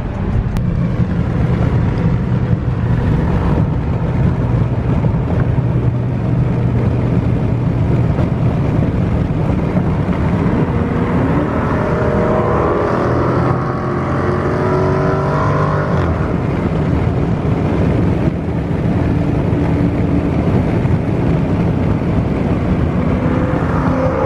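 Dodge Charger Scat Pack's 392 (6.4-litre) Hemi V8 running loud with its mufflers deleted. About halfway through it accelerates, its pitch climbing over several seconds, then it settles back to a steady drone.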